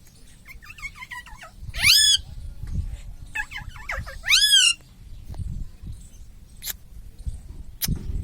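Indian ringneck parakeet calling: soft chattering notes, then a loud high call that sweeps up and down in pitch about two seconds in, and the same again about four and a half seconds in. A couple of sharp clicks follow near the end.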